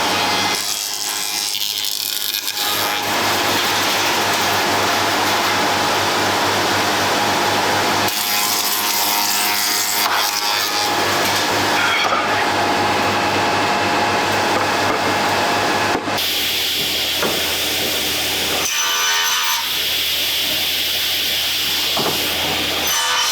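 Woodworking power tool running and cutting into wood, its motor hum steady under a loud cutting noise that changes several times as the work goes on.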